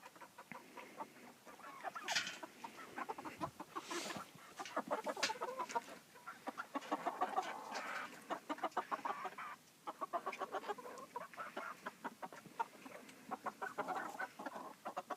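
A coop of young bantam Ameraucana and Polish chickens clucking and chirping, in quick runs of short calls with brief lulls.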